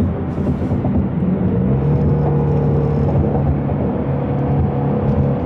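The Shelby Mustang GT350R's 5.2-litre flat-plane-crank V8 running under way at a steady pitch, heard from inside the cabin.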